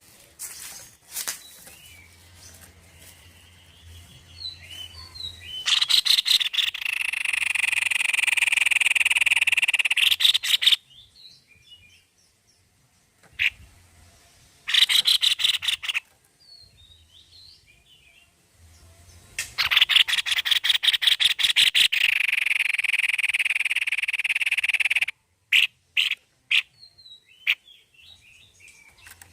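White-bibbed babbler (tepus leher putih) singing hard: bursts of rapid sharp notes that run into long, continuous rattling trills lasting several seconds. Two long trills come near the start and past the middle, with a shorter burst between them and softer chirps in the gaps.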